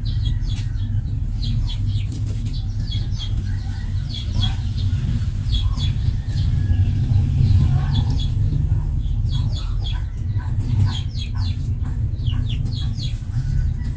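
Small birds chirping in clusters of short, quick, falling chirps, over a steady low rumble.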